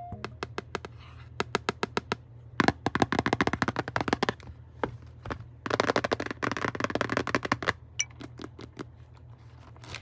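Close handling noise from unboxing: a rapid string of small clicks and taps, with two stretches of rustling packaging in the middle.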